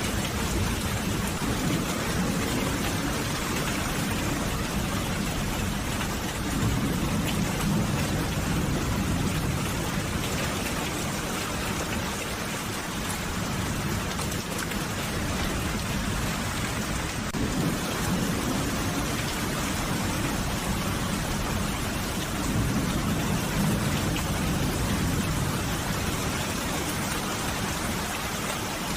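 Steady, even rain with two slow low rumbles of distant thunder, one starting about six seconds in and another about twenty-two seconds in.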